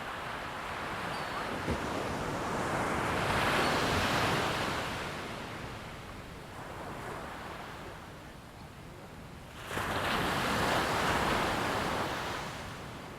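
A rushing noise with no engine tone. It swells to its loudest about four seconds in, dies down, then rises abruptly near ten seconds and fades again toward the end.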